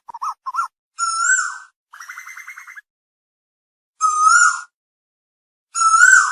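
Asian koel calling: a few short clipped notes, then a loud drawn-out note, a fast stuttering run of notes, and two more loud notes with pauses between them.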